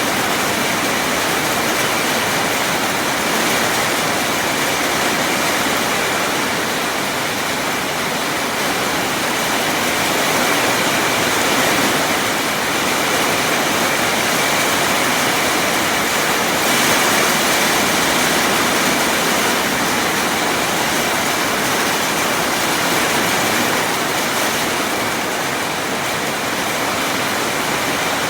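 Heavy rain pouring down in strong wind: a loud, steady rushing hiss that swells slightly now and then.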